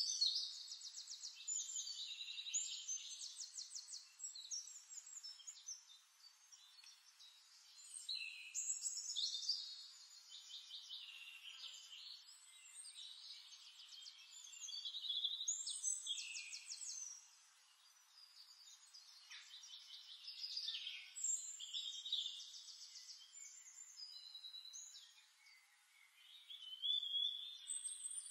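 Songbirds singing in a nature-sound recording: bursts of rapid trills and chirps every few seconds, sometimes overlapping, with short pauses between phrases.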